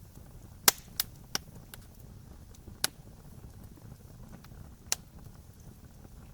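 Wood fire crackling: sharp pops from the burning wood, three close together in the first second and a half, then single pops about two seconds apart, over a steady low rumble.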